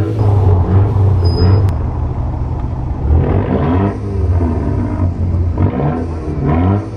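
Turbocharged hatchback engines idling at a drag-strip start line, revved in short blips a few times, the pitch rising and falling with each blip over a steady low rumble.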